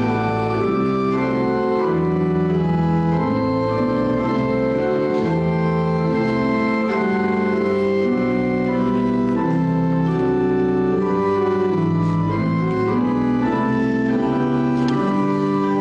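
Church organ playing a slow piece in held chords that change about once a second, with a melody above: offertory music.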